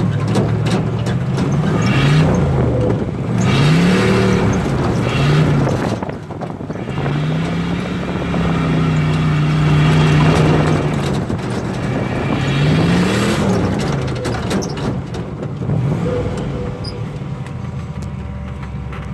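Turbocharged small-block Chevy V8 revving up and down in several short pulls, with one longer pull held steady midway, then settling lower near the end.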